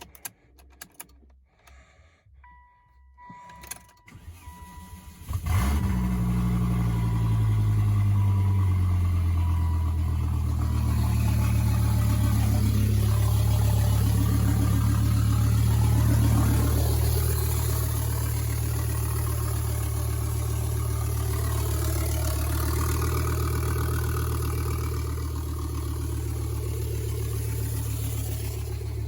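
Turbocharged Volvo S60 T5 inline-five with no exhaust fitted, started for the first time on a big turbo with no tune and no MAF: a few clicks and a short crank, then it catches about five seconds in and runs loud and unmuffled. The pitch wanders unevenly for several seconds before it settles into a steady idle.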